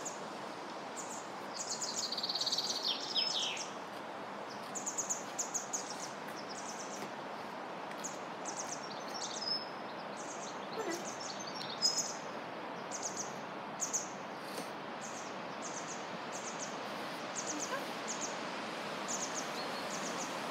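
Small birds chirping repeatedly in short high calls, with a brief trill about two seconds in, over a steady background of outdoor noise.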